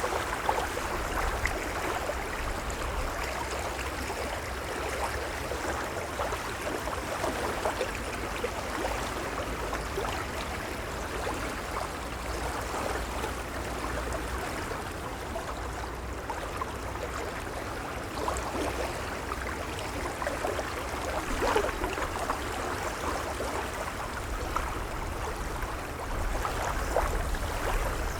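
Gentle waves lapping at the water's edge: a steady wash of small splashes that swells a little a few times, over a low rumble.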